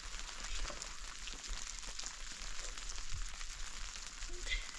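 Steady hiss with many fine crackles, like food frying or a small fire, over a low hum.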